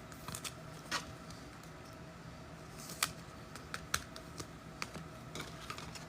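Scattered light clicks and taps of trading cards being handled and set down on a table, irregular and a second or less apart, over a faint steady room hum.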